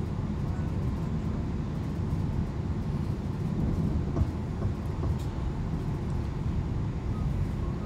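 Chiltern Railways passenger train running at speed, heard from inside the carriage: a steady low rumble of the wheels on the rails, with a few faint ticks and rattles over it.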